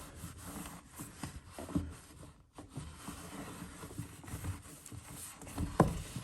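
Cloth wiping and rubbing inside a washing machine's detergent drawer housing, with irregular soft knocks of the hand and cloth against the housing and one louder knock near the end.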